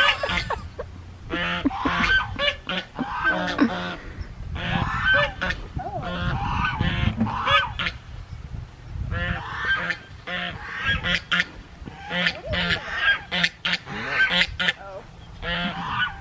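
A flock of farm waterfowl honking and calling in repeated bursts of short calls, with a low rumble in the middle.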